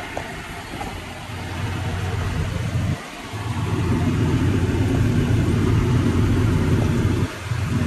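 Tractor running while pulling a harrow, heard from the operator's seat: a steady low rumble that drops away briefly about three seconds in and again near the end.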